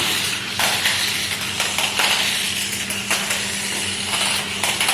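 Toy RC stunt car running: a steady electric-motor and gear whine under plastic clattering, with several sharp knocks as it hits the surface.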